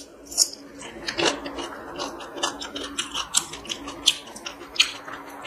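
Close-miked eating by hand: chewing and irregular wet mouth clicks and smacks, with fingers mixing rice on a steel plate. A faint steady hum runs underneath.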